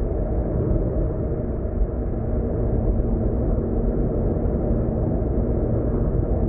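Steady low rumble of road and engine noise inside a car cruising at expressway speed.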